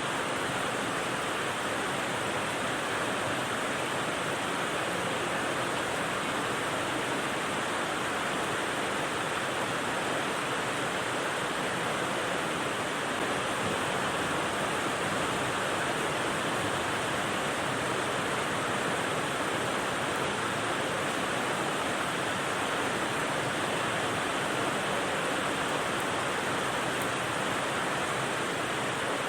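Steady rain white noise: an even hiss that does not change, with no separate drops or other sounds standing out.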